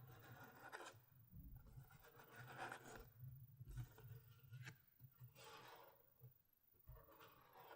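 Soft rubbing strokes on the GoPro Hero 4 Silver's packaging: about five unhurried strokes, each under a second long.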